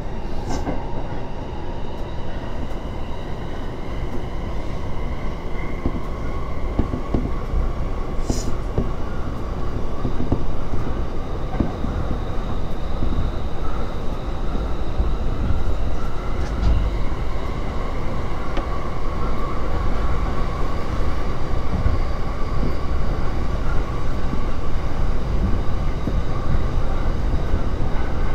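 JR Joban Line rapid electric train running, heard from inside the carriage as it gathers speed leaving a station: a steady rumble of wheels on rail with a thin, even whine above it. A sharp click comes about eight seconds in and another around seventeen seconds.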